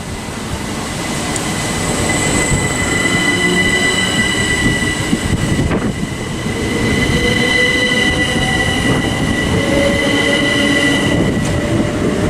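Southeastern Class 375 Electrostar electric train running at the platform: wheels rumbling on the rails under a steady high-pitched squeal, growing louder over the first couple of seconds.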